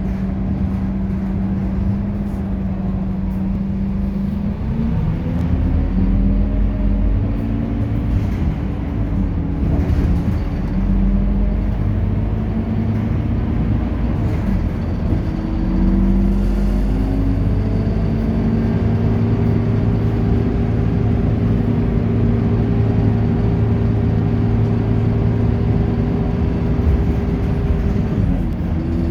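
Scania K230UB bus's diesel engine accelerating, its pitch climbing and stepping up through gear changes, then holding steady before dropping near the end.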